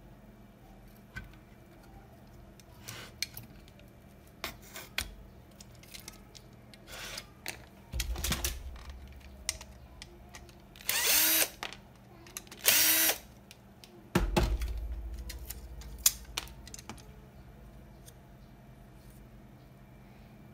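Small cordless drill/driver whirring in two short bursts of about half a second each, amid scattered clicks of parts being handled and two heavier knocks on the bench.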